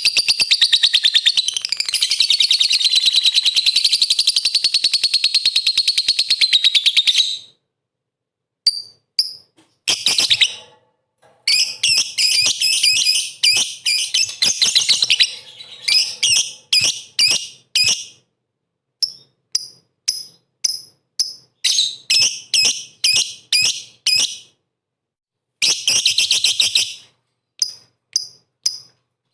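Lovebird chattering: a long unbroken run of rapid shrill trilling for the first seven seconds or so. Then come broken bursts of chirps and short calls repeated about twice a second, with abrupt silent gaps between them.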